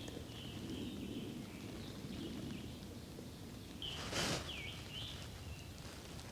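Quiet woodland ambience with a small songbird calling faintly: a high chirp near the start and a short whistled call that dips and rises about four seconds in, with a brief rustle of leaves or clothing at the same moment.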